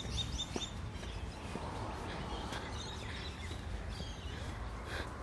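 A bird calling: a quick run of four short, high, falling notes at the start, then fainter scattered calls, over a steady low rumble.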